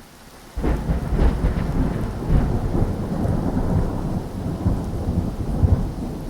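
Thunderstorm sound effect: a soft hiss of rain, then about half a second in a long, loud rumble of thunder sets in and rolls on over the rain.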